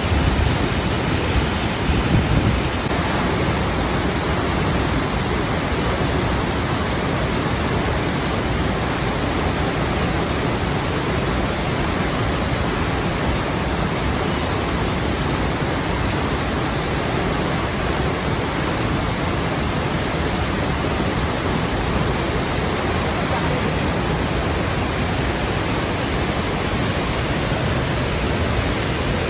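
Rushing water flowing steadily, a dense even hiss, a little louder in the first couple of seconds.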